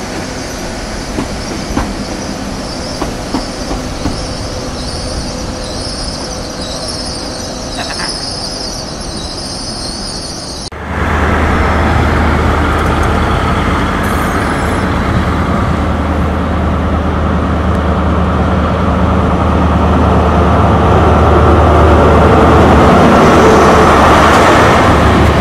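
Green GWR Intercity Express Train rolling over the tracks, wheels clicking on rail joints with a high wheel squeal. About eleven seconds in, the sound cuts abruptly to a GWR InterCity 125 (HST) Class 43 diesel power car running in alongside the platform: its engine is a loud, steady low drone that builds as it comes close, and the coach wheels run behind it.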